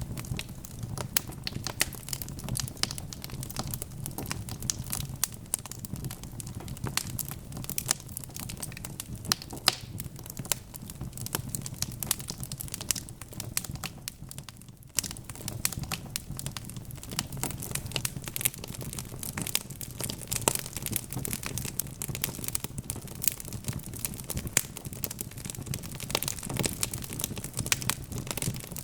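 Wood fire crackling: dense, irregular pops and snaps over a steady low rumble of burning, briefly quieter about halfway through.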